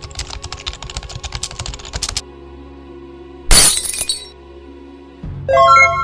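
A run of rapid clicks, like typing, for about two seconds. About three and a half seconds in comes a single loud crash, and near the end a short pitched sound with several tones. Steady background music plays under them all.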